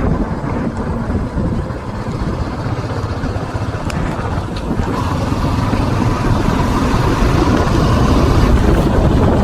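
Steady low rumbling noise from a moving mountain bike ride: wind buffeting the camera microphone along with tyre and trail noise. It grows slightly louder toward the end.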